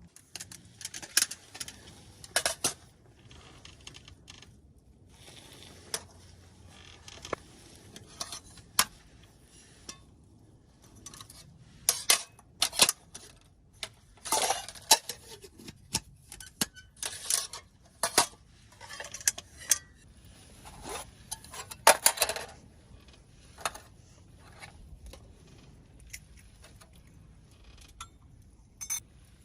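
Metal cookware and utensils clinking and clattering, irregular knocks and scrapes coming in scattered clusters.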